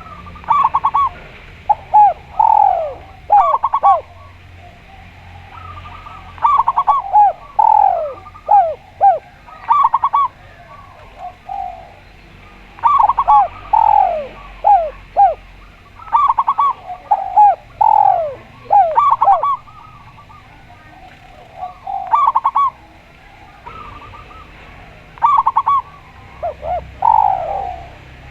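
A spotted dove and a zebra dove cooing in alternating bouts. The calls are short falling coos mixed with quick rattling runs of notes, each bout lasting a few seconds and separated by brief pauses.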